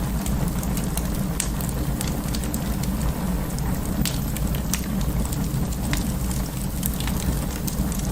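Wood fire burning in an open fireplace: a steady low rumble and hiss of the flames, with irregular sharp crackles and pops from the burning logs.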